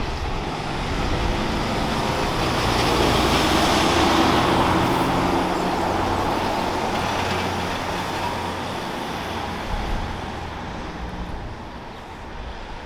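A truck driving past: engine and tyre noise swelling to a peak about four seconds in, then slowly fading as it moves away.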